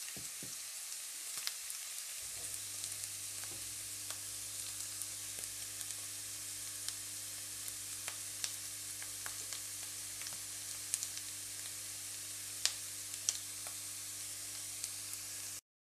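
Sliced russula mushrooms and green onion sizzling in oil in a frying pan, with scattered crackling pops. A wooden spatula scrapes and stirs them during the first two seconds, and a steady low hum comes in after about two seconds; the sound cuts off abruptly just before the end.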